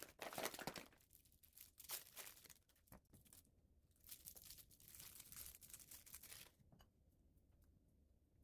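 Crisp crinkling, tearing sounds in three bursts of a second or two each, with light clicks in between and after.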